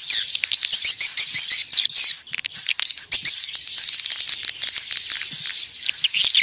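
Many swiftlets twittering: a dense, unbroken chatter of high chirps mixed with rapid clicks. It is the swiftlet 'calling sound' of the kind played to draw swiftlets into nesting houses.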